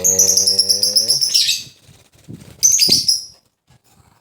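Pet lovebird chirping in two bursts of rapid, shrill twittering, the first longer, with a low steady hum under its first second.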